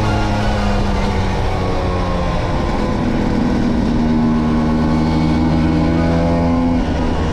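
Vespa V50 two-stroke engine running under way, its pitch sagging slightly and then stepping up about three seconds in.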